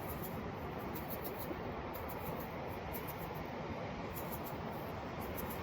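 Faint scratchy sounds of salt being shaken onto raw fish fillets, over a steady background hiss.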